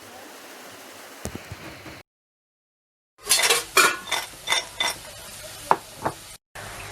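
Freshly fried, crisp french fries crackling and rattling as they are handled, played to show how crispy they are. After a short break, a run of a dozen or so sharp dry crackles comes about three seconds in.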